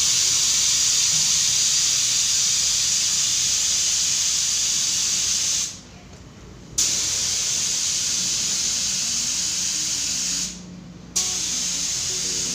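Aerosol spray-paint can hissing in three long bursts, each cut off sharply, with short pauses between: undercoat being sprayed on.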